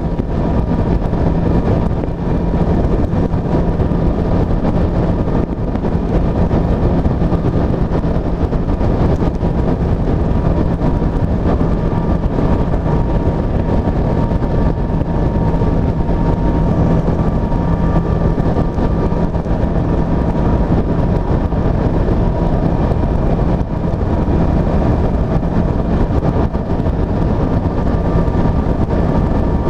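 Honda CB500F's parallel-twin engine running at steady revs while the motorcycle is ridden, its note holding level over a steady rush of wind.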